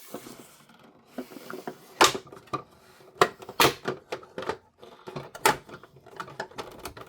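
Small screws and hard plastic toy parts being handled, clicking and clattering in an irregular run of sharp taps and knocks, with a few louder ones.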